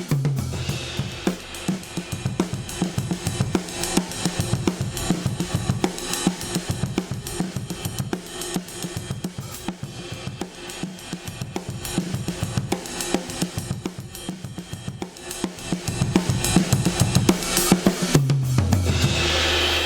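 Drum kit recording played back through a DBX 119 compressor/expander: a busy groove of kick, snare, hi-hat and cymbal hits, with a held low tone near the start and again near the end.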